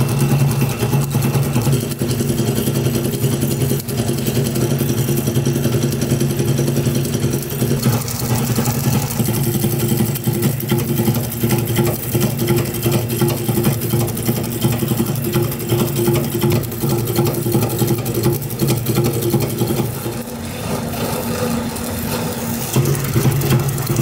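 Snack-factory processing machinery running: a steady low mechanical hum with a dense rattle over it, its tones shifting about a third of the way in and again near the end.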